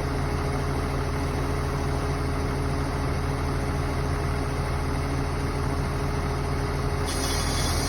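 Truck crane's diesel engine idling steadily, with a low, even hum. About seven seconds in, a high hiss joins in.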